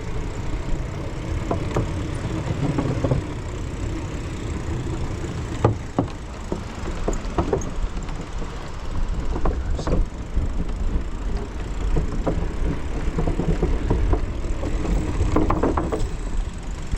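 Mountain bike freewheeling downhill, with a steady wind rumble on the microphone and scattered knocks and rattles from the bike over rough ground.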